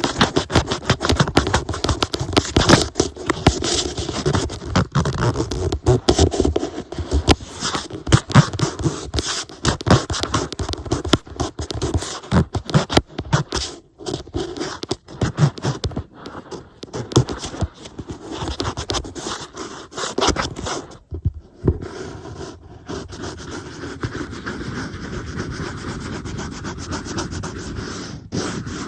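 Close-up scratching and scraping on an iPad, with dense, irregular strokes. It breaks off briefly twice in the second half and goes smoother and steadier near the end.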